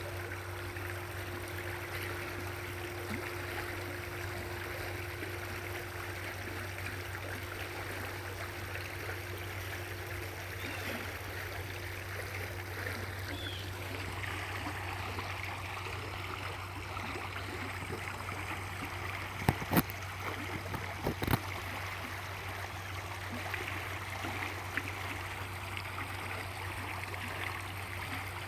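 Stream water flowing steadily. A handful of sharp clicks or knocks about two-thirds of the way through stand out above it.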